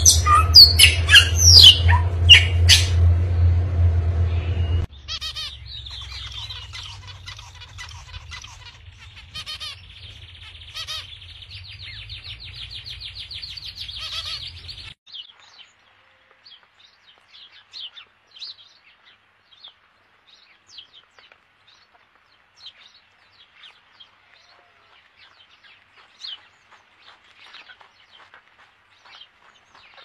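A Bali myna gives loud, harsh calls over a low hum for the first five seconds. Softer chirping and a fast rattling trill follow, then only faint, scattered chirps for the rest.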